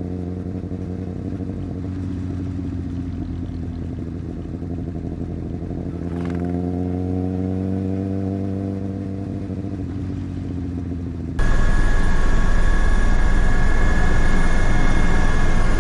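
Superbike engine running at a steady cruise, its pitch rising a little about halfway through. Near the end the sound switches suddenly to a louder, rougher vehicle noise with a steady high whine.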